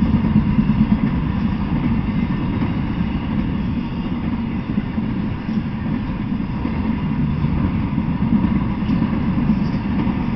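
A freight train of flatcars carrying semi-trailers rolling past close by: a steady, heavy low rumble of wheels on rails, with no distinct clickety-clack beat.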